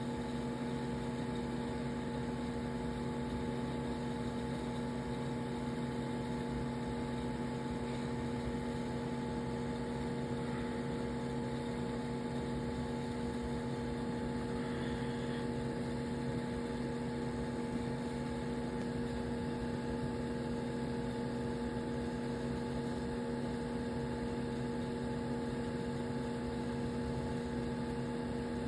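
Aquarium pump motor humming steadily, with a faint hiss of running water or air underneath.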